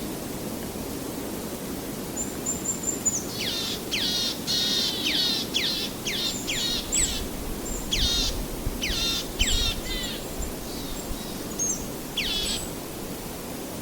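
A songbird singing a run of rapid falling high notes from about three seconds in until about ten seconds, and one more note near the end, over a steady background rush.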